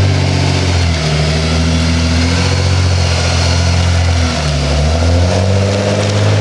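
Car engine and exhaust running at steady revs. The revs dip briefly about four seconds in, then climb again near the end.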